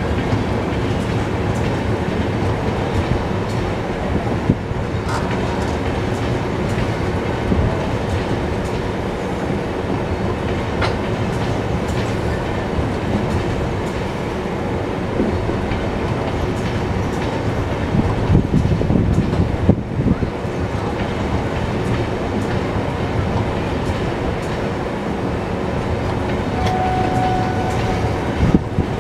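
Indian Railways passenger coaches rolling past close by: a steady rumble of wheels on rail, with the clickety-clack of the bogies running over rail joints.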